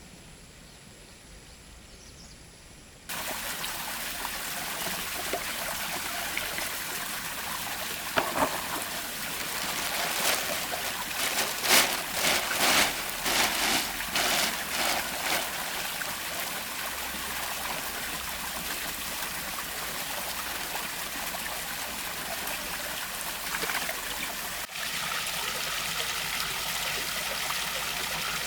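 Water from a small artificial stone waterfall steadily trickling and splashing into a pond, starting suddenly about three seconds in. A run of louder splashes comes around ten to fifteen seconds in.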